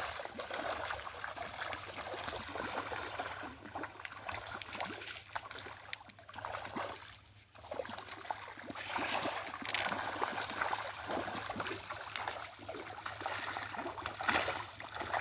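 Water trickling and splashing unevenly, with a brief lull about halfway through.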